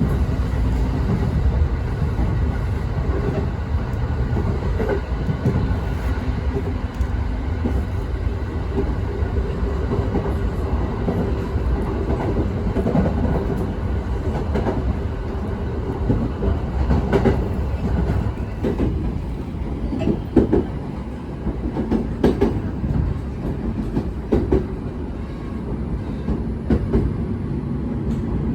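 Uchibo Line electric train running on the track: a steady low rumble with the wheels clicking and knocking over rail joints.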